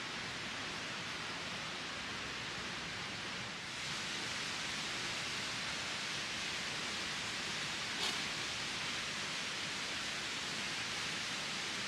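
A steady outdoor rushing hiss with no distinct events. It gets slightly louder a few seconds in, and there is a single faint click about eight seconds in.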